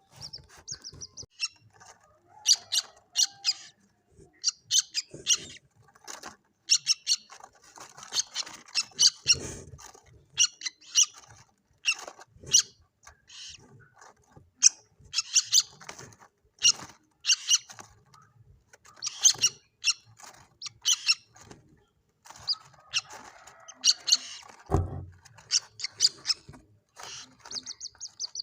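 Common moorhen chicks calling: many short, high peeps and chirps in irregular clusters, with a few brief buzzy trills. A single low thump sounds near the end.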